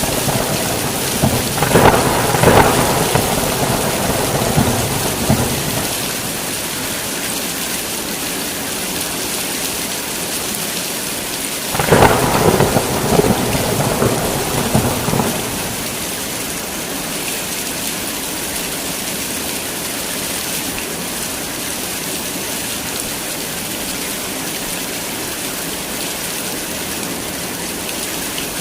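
Heavy, steady rain pouring down through a thunderstorm. Thunder rolls near the start and again about two seconds in, and a louder, sharp thunderclap breaks about twelve seconds in and rumbles for a few seconds before the rain alone goes on.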